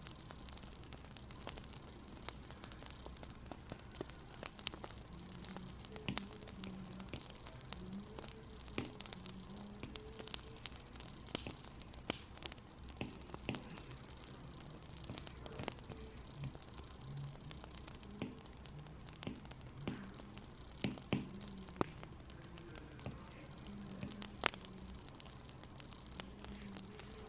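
Wood fire crackling, with irregular sharp pops and snaps over a steady soft hiss.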